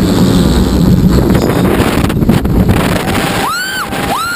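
Wind buffeting a head-mounted camera's microphone and the rumble of a roller coaster train running at speed. Near the end a rider screams twice: a short rising shriek, then a long, high held one.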